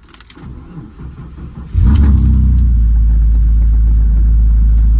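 BMW E46's turbocharged M42 four-cylinder engine being started: quiet cranking for under two seconds, then it catches suddenly and runs loud and steady.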